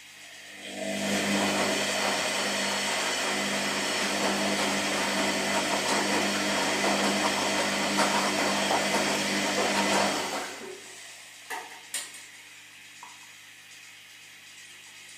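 Washing machine running through its wash cycle: the motor starts about a second in and turns the drum with a loud, churning, mechanical noise for about ten seconds, then stops. Two sharp clicks follow, and a low steady hum carries on underneath throughout.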